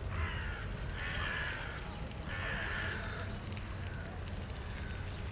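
A bird gives three harsh, noisy calls, each under a second long, over a steady low rumble.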